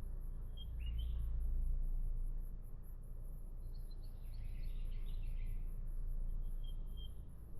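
Birds calling in the bush: a couple of short chirped notes about a second in, a quick run of chirps in the middle and two more near the end, over a steady low rumble.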